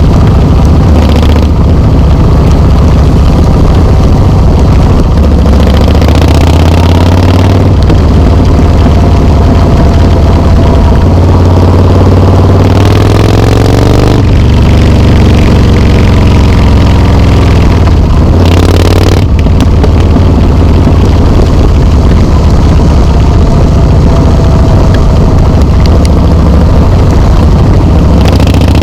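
Harley-Davidson Softail Slim S's 1800 cc V-twin running loud through Vance and Hines slip-on mufflers. The revs rise and fall several times between stretches of steady running.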